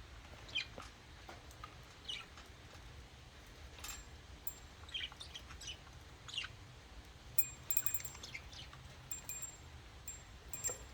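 Pet budgerigars chirping now and then: short, sharp, high chirps every second or so, with a few brief ringing high notes about three-quarters of the way through.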